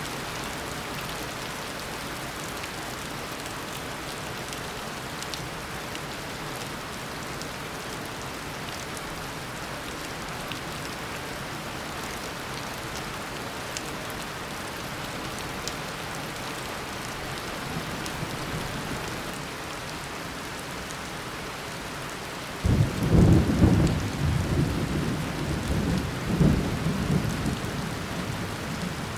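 Heavy tropical rain falling steadily, with scattered drips. About three-quarters of the way through, a sudden crack of thunder breaks in and rolls on in low rumbling pulses.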